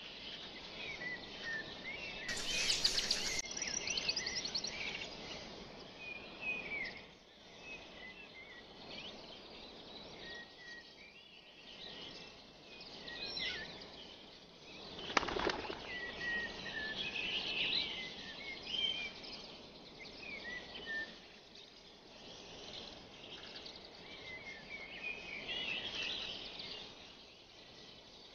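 Small birds chirping on and off over a steady outdoor hiss. There is a brief louder rustle about two and a half seconds in, and a single sharp knock near the middle.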